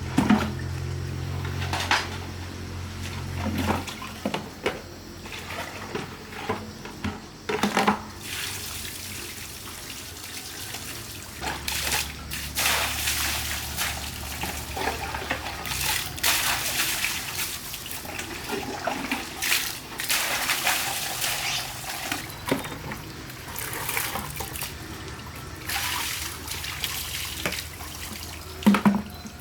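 Water running and splashing in irregular bursts, with a few sharp knocks.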